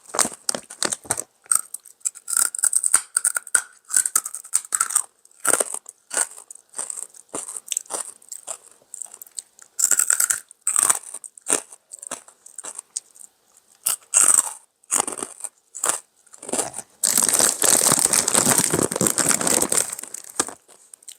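Close-up biting and chewing of crunchy fried fatback pork rinds: many short, sharp crunches and crackles in irregular bursts. Near the end comes a denser stretch of continuous crackling about three seconds long.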